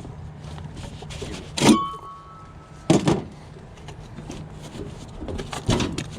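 Several sharp knocks and clanks, one followed by a brief metallic ring, over a steady low hum.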